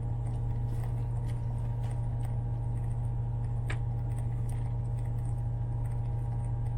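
Steady low hum of a semi-truck idling, heard inside the cab, with a few light clicks and rustles of things being handled, the sharpest click a little past halfway.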